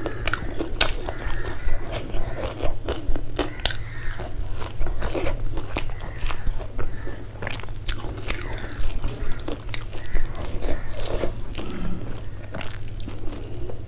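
Close-miked chewing and lip-smacking as a mouthful of rice and spicy fried shrimp is eaten, with frequent irregular sharp wet clicks. A steady low hum runs underneath.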